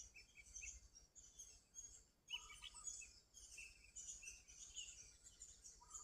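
Sooty-headed bulbul (kutilang) calling in quick runs of short high chirps, with a lower, fuller phrase about two and a half seconds in, over a steady high hiss.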